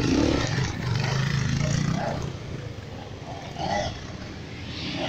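Enduro dirt bike engine running as the bike passes close by, loudest in the first two seconds and then fading as it moves away.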